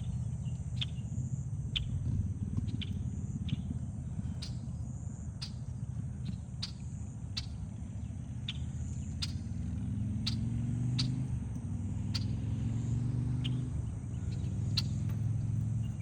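Insects chirring steadily in a high, pulsing drone, with sharp ticks about every two-thirds of a second over a low rumble that swells near the middle.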